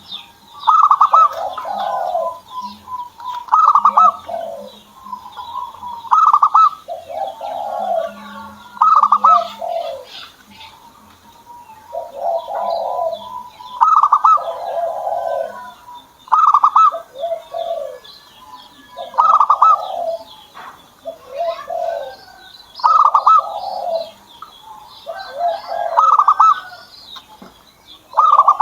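Zebra dove (perkutut) cooing: a phrase of quick, bubbling notes followed by lower coos, repeated about every three seconds. Fainter high chirps run underneath.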